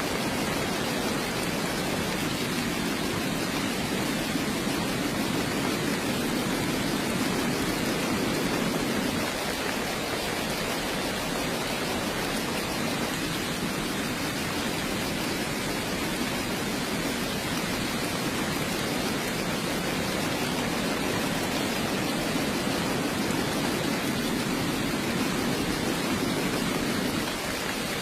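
Steady heavy rain: an even, unbroken hiss of falling rain with a slight low rumble underneath that eases briefly about a third of the way in and again near the end.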